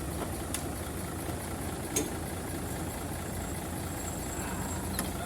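Heavy truck's diesel engine running steadily, with a few brief sharp clicks.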